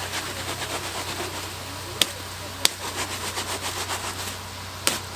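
Dough being worked and pressed by hand on a bakery table: a run of soft taps with three sharp knocks, over a steady low hum.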